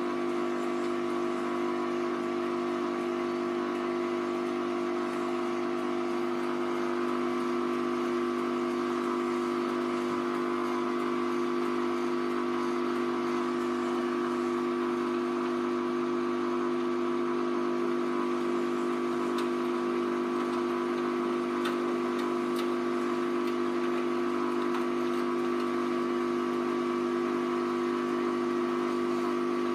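Hoover Vision Tech VT 914 D22X washing machine running at a steady drum speed, its motor giving an even whine that holds one pitch throughout, as in a spin.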